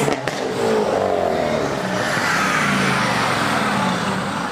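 A tuned sports car's exhaust: a couple of sharp pops right at the start, then the engine is revved up and its pitch sinks slowly as the revs fall back.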